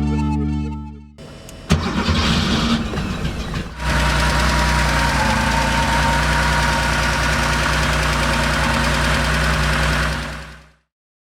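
Air-cooled 2.4-litre flat-six of a 1972 Porsche 911 2.4 E starting with a sudden catch about two seconds in, running unevenly at first, then settling into a steady run that fades out near the end. Background music fades away at the start.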